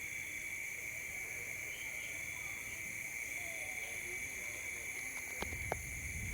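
Steady chorus of night insects, crickets trilling on high continuous tones. About five and a half seconds in come two sharp clicks, and a low rumble sets in after them.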